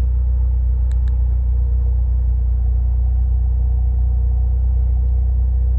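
Nissan 240SX engine idling steadily while it warms up after a coolant refill, with air being bled from the cooling system. There are two faint short clicks about a second in.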